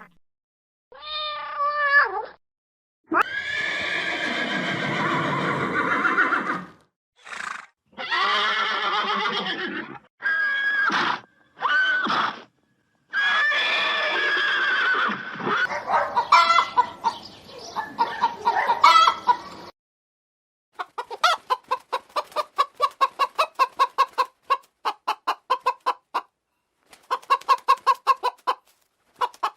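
A string of separate long, pitched animal calls, some lasting several seconds, then chickens clucking in quick runs of short notes, several a second, over the last third.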